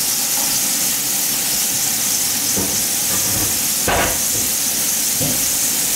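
Dried salted codfish and chopped vegetables frying in oil in a wide metal pan: a steady sizzle, with one brief louder burst of noise about four seconds in.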